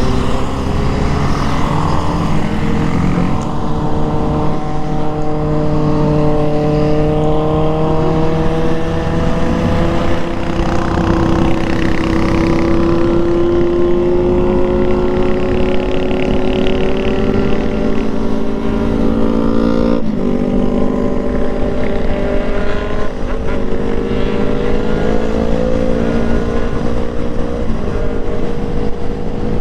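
Motorcycle engine running under way, its pitch slowly rising and falling with road speed, with a brief break about twenty seconds in.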